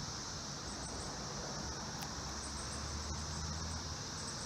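Cicadas in chorus: a steady, unbroken high-pitched drone, with a faint low rumble underneath that swells slightly past the middle.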